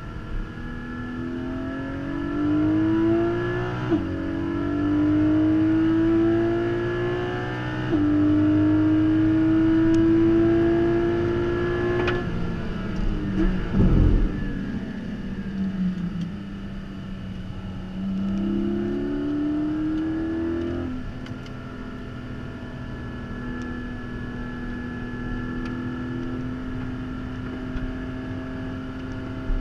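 The 4.0-litre flat-six of a 2022 Porsche Cayman GT4 with PDK, heard from inside the cabin on track. Under hard acceleration the engine note climbs and falls sharply at quick upshifts about four and eight seconds in. Around twelve to fourteen seconds in it breaks off with a few sharp, loud blips as the car slows, then pulls and shifts once more and settles into a steadier, lower note for the last third.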